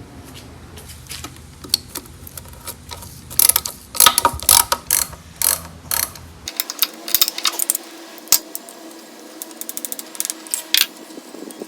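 Hand ratchet wrench clicking in bursts as it backs out a loosened, rusty bolt on an engine's intake, with a quicker run of clicks near the end.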